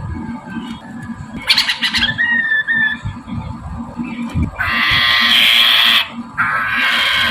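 Mandarin poksay, a laughingthrush, giving harsh, rasping squawks. A short call is followed by a brief whistled note, then two long harsh calls of about a second each near the end. This is a lure call meant to set other poksays answering.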